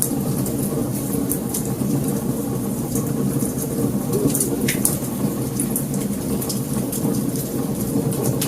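Wood fire burning: a steady low rush of flames with scattered sharp crackles and pops at irregular moments.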